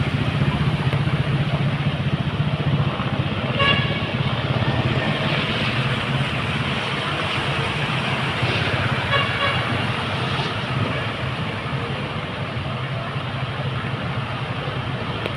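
Street traffic: a vehicle engine running steadily under road noise, with a short horn toot about four seconds in and another about nine seconds in.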